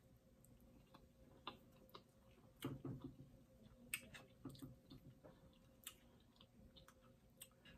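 Faint close-up eating sounds: a mouthful of soft pancake and whipped cream being chewed, with scattered small mouth clicks and a few light taps of a fork.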